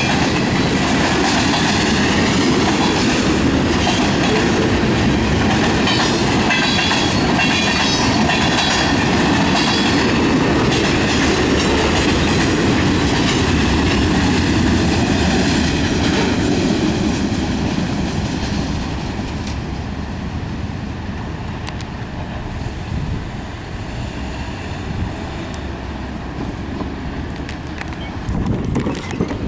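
Freight cars of a manifest train rolling past, steel wheels clacking over the rail joints, with some high ringing from the wheels. About two-thirds of the way through the sound drops off and grows fainter as the train pulls away.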